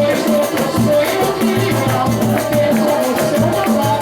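Live samba band playing an instrumental passage: repeated bass notes, melodic lines above them, and a fast, steady shaker rhythm.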